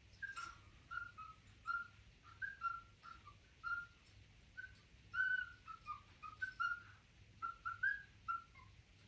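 Pet cockatiel whistling a quick series of short notes, some sliding down in pitch, with brief pauses between phrases.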